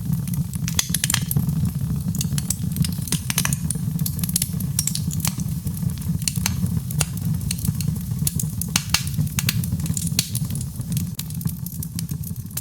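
Birchwood fire burning in a fireplace: a steady low rumble of flame with frequent, irregular sharp crackles and pops.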